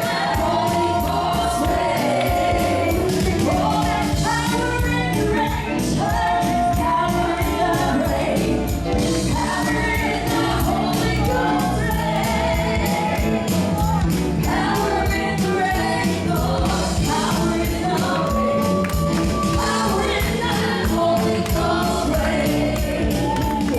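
Congregation and singers in gospel praise singing with a band, a tambourine keeping a fast, even beat.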